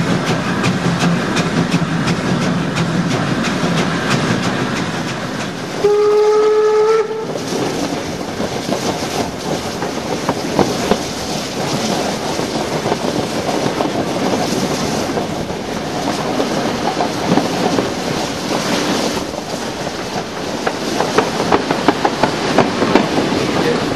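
Train running with steady rolling noise and rail-joint clatter, heard close from a coach window behind a steam locomotive. About six seconds in, the locomotive's whistle sounds once, a steady tone for about a second. The clatter grows busier near the end as the train rolls into the station.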